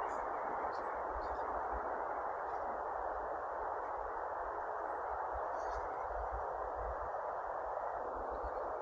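Steady hiss of street traffic, with a few faint bird chirps and low buffeting from wind on the microphone.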